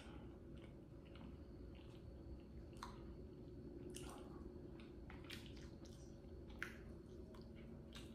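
Faint chewing of food, with scattered soft wet mouth clicks over a low steady hum.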